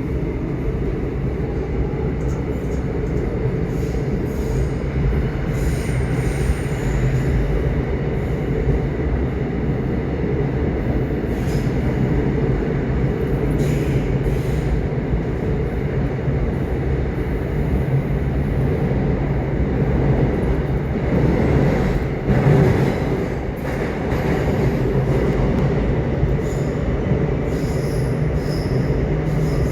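Subway train running on its track: a steady low rumble of wheels and car with a constant hum, and short high wheel squeals now and then.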